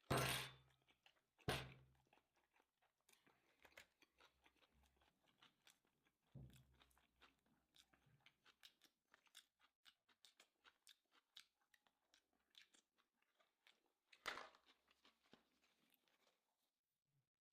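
Close-miked chewing of sushi: many small wet mouth clicks and soft crunches, with a few louder sharp knocks, the loudest at the very start, another about a second and a half in, one around six seconds and one near the end.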